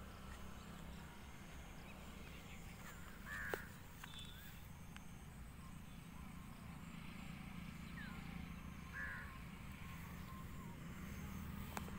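Quiet rural outdoor ambience: a bird calls twice, about three seconds in and again near nine seconds, with a few fainter chirps, over a low steady rumble.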